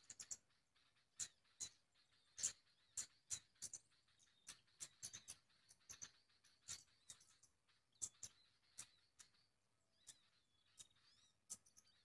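Small birds giving short, sharp, high-pitched chirps at irregular intervals, sometimes several in quick succession, with a few quick sweeping calls near the end.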